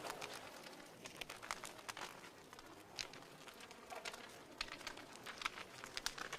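Wood fire crackling in a fireplace: irregular small pops and snaps over a soft hiss.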